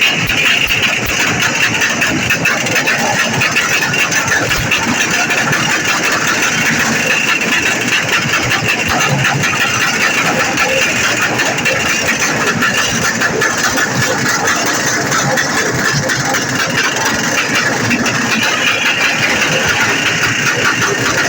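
Vehicle engine running loudly and steadily, without a break.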